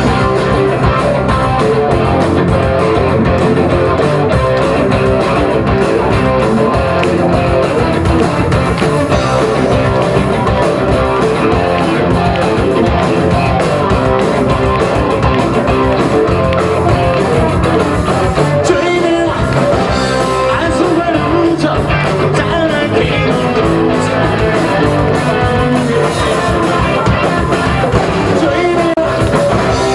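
A rock band playing live: electric guitars over bass and drums, with a singer.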